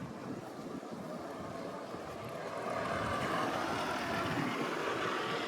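Vehicle noise, an even rushing sound that grows louder about halfway through.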